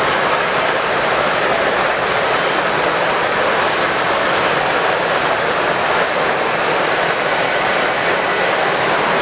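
Steady crowd murmur in a large, busy exhibition hall: many distant voices blending into an even wash of noise.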